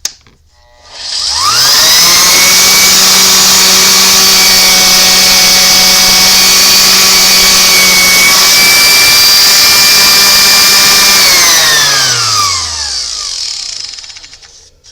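Ridgid 2601 random orbital sander: a click, then the motor spins up within about a second, runs steadily for about ten seconds and winds down in falling pitch. It is running with a freshly fitted sanding pad that now grips the sandpaper disc.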